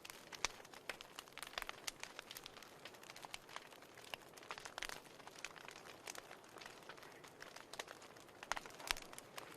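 Wood fire burning in a fireplace: frequent irregular crackles and pops over a low steady hiss.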